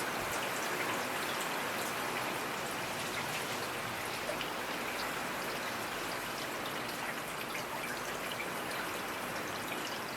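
Steady rainfall: an even hiss of rain with many scattered small drop ticks.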